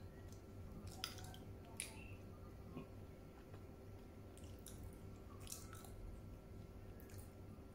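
Close-up mouth sounds of someone chewing soft Ajwa dates: moist smacks and clicks, a handful spaced a second or more apart, over a faint steady hum.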